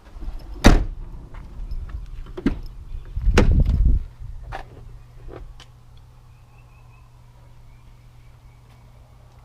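Heavy thunks and clicks from the truck's doors or latches being worked: a sharp thunk about a second in and a longer, heavier clatter around three and a half seconds, with smaller clicks between. A steady low hum follows.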